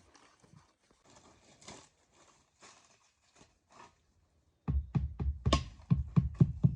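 Faint scraping and light taps, then, about two-thirds of the way in, a loud rapid run of knocks, about five a second.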